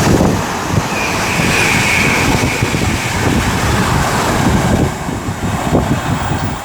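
Intermodal freight train hauled by a DRS Class 88 locomotive passing the platform at speed: a steady loud rush and rumble of the train going by, with its slipstream buffeting the microphone. A high whine rises out of the noise about a second in and slowly falls away.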